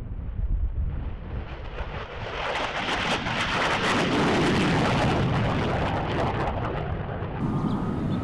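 Aircraft engines roaring as a plane goes by, building from about two seconds in to a loud peak in the middle. A low rumble of wind on the microphone runs underneath.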